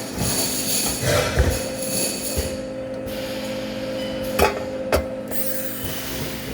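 Steady machine hum in a workshop, with two sharp knocks about half a second apart a little past the middle.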